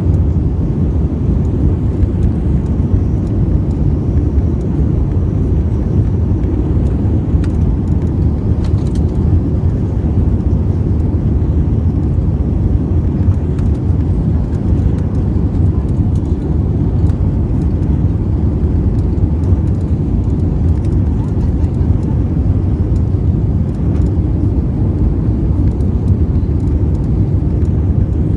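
Steady low rumble of cabin noise inside an Airbus A320 airliner in descent: engine and airflow noise heard from a window seat.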